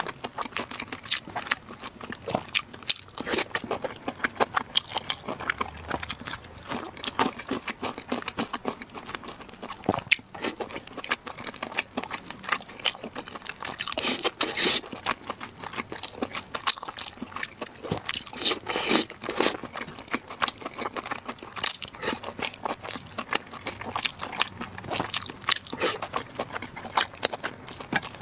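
Close-miked eating: a person biting and chewing, with rapid, irregular wet smacks and clicks of the mouth. The chewing is louder about halfway through and again about two-thirds of the way in.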